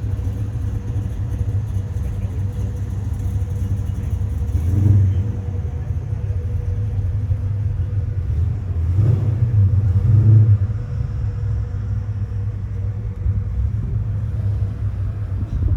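Car engine and road noise heard while driving slowly: a steady low rumble that swells louder twice, about five seconds in and again around nine to ten seconds in.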